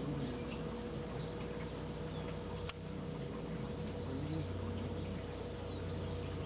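Faint, scattered bird chirps over a steady low electrical hum, with one sharp click a little before halfway.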